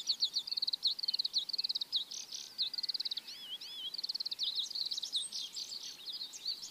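Birds chirping and trilling, several calls overlapping without a break: quick high trills mixed with short whistled slurs, with a few wavering whistles about three seconds in.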